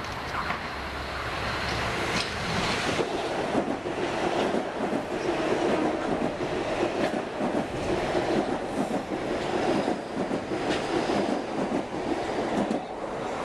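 Metro-North M8 electric multiple-unit train running along the platform close by, its steel wheels clacking over the rail joints in a steady run of clicks. The sound swells just after the start and eases slightly near the end.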